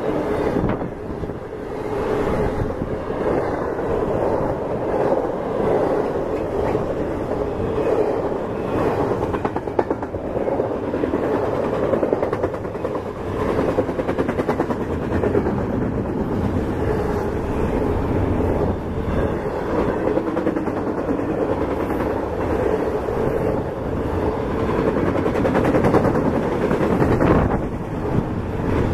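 Freight train cars rolling past close by, steel wheels on the rails giving a steady rumble with rapid clicking over the rail joints.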